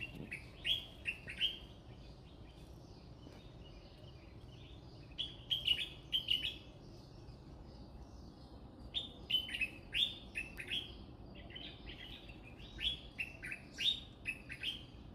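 Birds chirping: clusters of short, quick notes in four bursts, about a second in, around five to six seconds in, around nine to eleven seconds in, and from about twelve to fourteen seconds in, over a steady low background noise.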